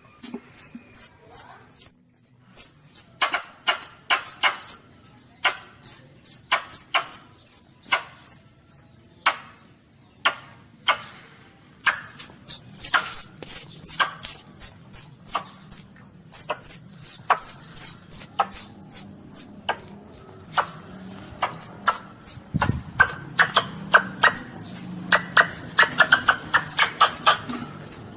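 Lure-call recording of a baby Asian palm civet: a fast run of short, high squeaks, each falling in pitch, about two to three a second, with a short pause about ten seconds in.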